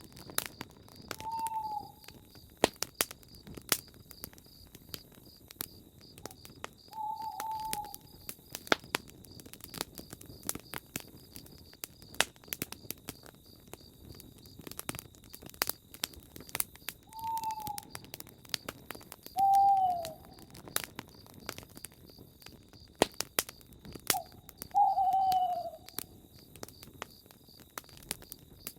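Campfire crackling, with frequent sharp pops and snaps. A bird calls five times over it, each a short note falling in pitch, and a steady high pulsing trill runs underneath.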